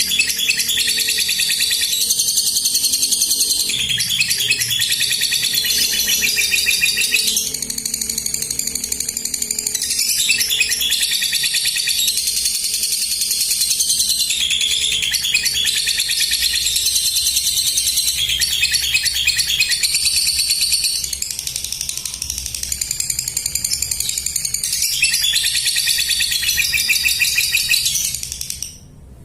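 Lovebird singing its long 'ngekek' chatter: a loud, very rapid, high-pitched trilling in runs of two to four seconds with brief breaks between them, stopping just before the end.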